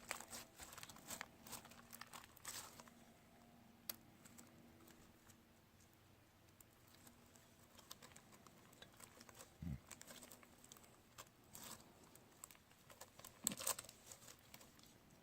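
Faint crackling and crinkling of a stiff, over-activated slime with too much borax in it being squeezed and pulled by hand. It comes in short runs at the start and again near the end, with a soft low thump about ten seconds in.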